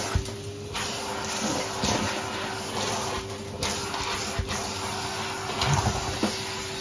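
Numatic Hetty cylinder vacuum cleaner running steadily with a constant motor hum and suction hiss. Short clicks and knocks come and go as it picks up a mess-test mix.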